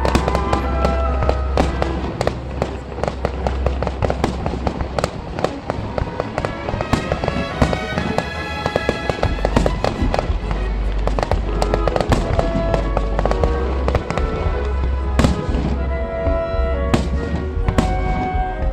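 Fireworks display: a dense, continuous run of bangs and crackling bursts, mixed with loud music that has a heavy bass.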